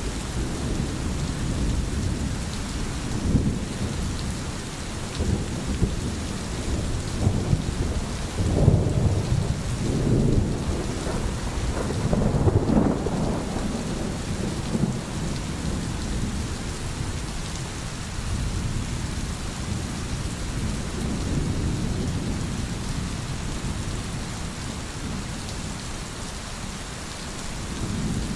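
Steady rainfall hiss with low, rolling rumbles of thunder swelling and fading several times in the first half.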